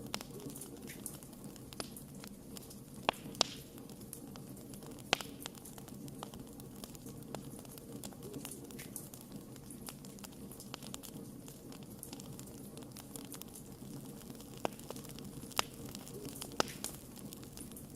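Campfire crackling: a steady low rustle of burning with scattered sharp pops, the loudest a few seconds in and again near the end.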